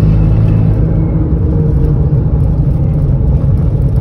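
Turbocharged three-cylinder engine of a Stage 3 VW up! TSI running steadily while the car drives along, heard from inside the cabin with tyre and road noise.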